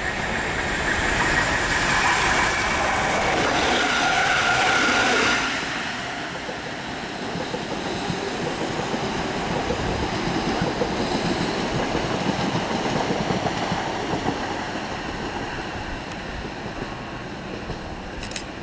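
Electric multiple-unit passenger train running past and into the station: wheels clattering on the rails with a high whine over the first five seconds, then a steady rumble that fades toward the end.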